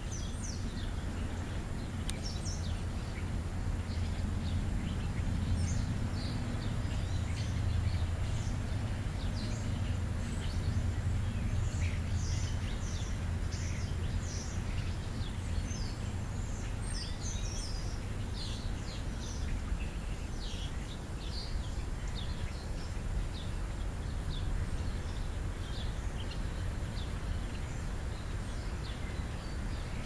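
Small birds chirping repeatedly in quick short calls, busiest in the first two-thirds, over a steady low outdoor rumble.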